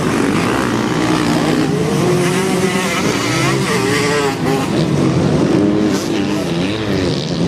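Several motocross motorcycle engines running at once, their pitch repeatedly rising and falling as the riders work the throttle.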